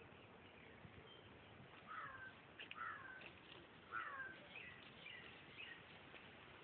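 Bird calling: three short, falling calls about a second apart, then a few quicker, higher chirps, over a faint background hiss.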